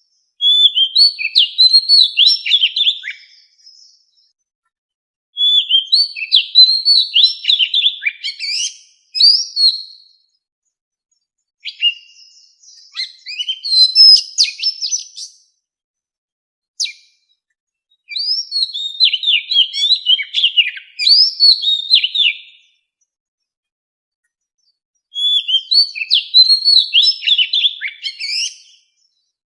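Oriental magpie-robin singing its wild-type song: rapid, varied, high whistled phrases of a few seconds each, broken by pauses of one to three seconds.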